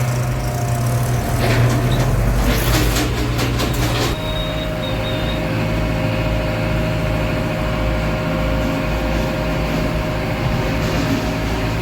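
A heavy diesel engine running steadily, with a burst of clattering between about one and a half and four seconds in. About four seconds in, the engine note drops and a thin, high squeal comes in.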